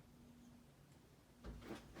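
Casablanca Four Seasons III ceiling fan motor running on low speed with a faint, steady hum, which the owner calls a bad hum. A few short clicks or knocks come near the end.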